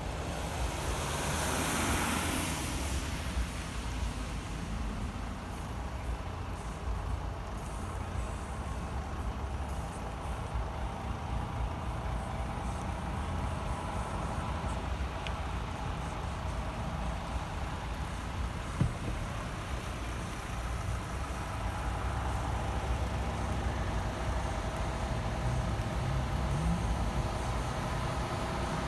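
Heavy truck running with a steady low engine rumble and road noise. A brief burst of hiss comes a second or two in, and a single sharp knock comes about two-thirds of the way through.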